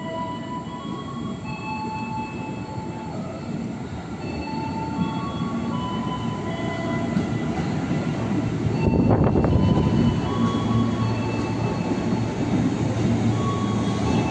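Train moving through a station, its steel wheels squealing on the rails in many short high tones over a steady rumble. It grows louder, with a burst of noise about nine seconds in and a deeper rumble after.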